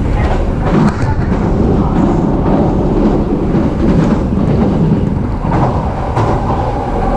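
Steady rumble of a JR East E233 series electric commuter train running, heard from inside the carriage, with faint clicks of the wheels over rail joints. A steady hum comes in about five and a half seconds in.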